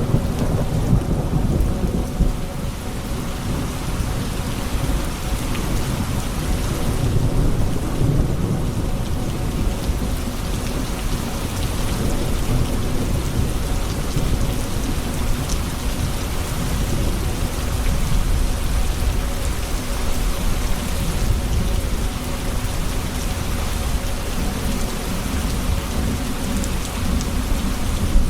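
Thunderstorm: steady heavy rain with low rolling thunder rumbling beneath it, swelling near the start and again about a third of the way in.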